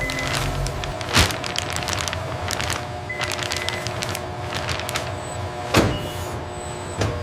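Factory machinery running with a steady whir and rapid clicking, broken by two sharp knocks, one about a second in and one near six seconds, and a lighter knock near the end.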